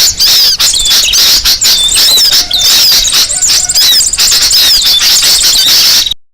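Bird-lure recording of a noisy flock of small birds: dense, high, overlapping chirps and squeaky twitters with only brief gaps. It cuts off suddenly just before the end.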